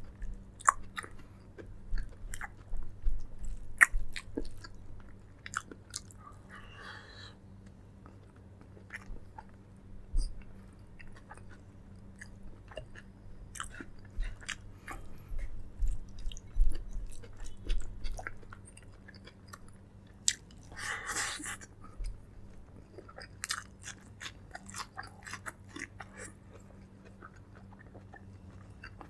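A person eating close to the microphone: chewing and biting, with many irregular crisp clicks. Two short noisy rushes come about seven seconds in and again about twenty-one seconds in.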